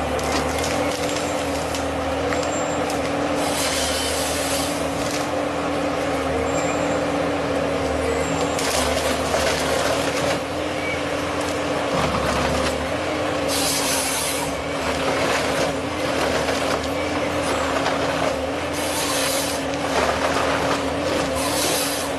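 Forestry harvester's diesel engine running at a steady pitch, with about five bursts of hissing noise, each about a second long, as the harvester head works.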